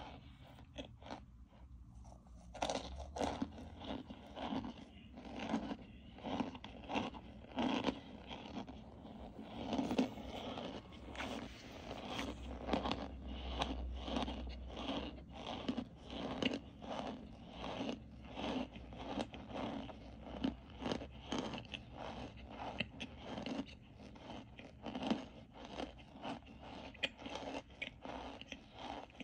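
Close-up chewing of hard, crumbly pressed-powder chunks: a steady run of crunches at about two a second, soft for the first couple of seconds and louder after that.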